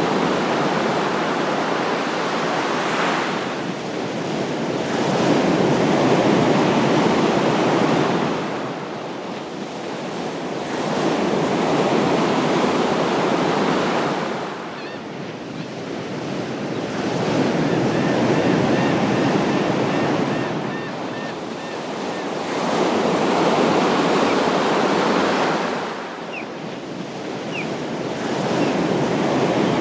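Ocean waves washing in and out, each surge swelling and ebbing about every six seconds.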